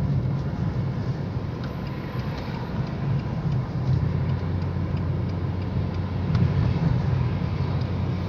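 A Caprice on the move, heard from inside the cabin: steady engine and road noise, a low continuous rumble.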